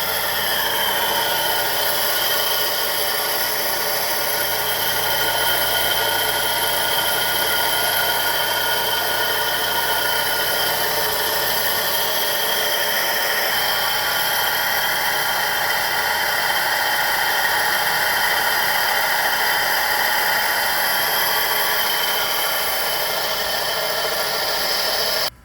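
2012 Chevrolet Sonic engine running, with a steady high whine from the accessory belt drive. The owner says the strange noise seems to come from the alternator or the belt tensioner, but he is not yet sure which. The sound cuts off suddenly at the end.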